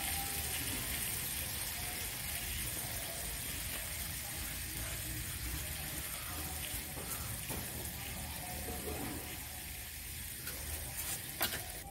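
Diced potatoes frying in a kadai on low heat, a steady soft sizzle, with a few light clicks near the end.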